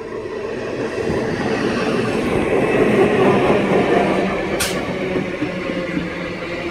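Electric multiple unit (EMU) local train running past close by. Its steady hum and rail noise build up in loudness over the first three seconds and then hold. A brief hiss comes about four and a half seconds in.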